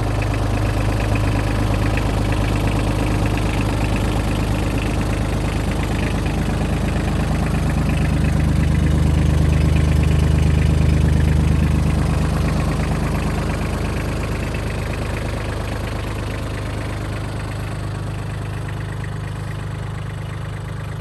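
Mitsubishi MRT-18 compact crawler tractor's engine running steadily, growing louder toward the middle and then easing off a little.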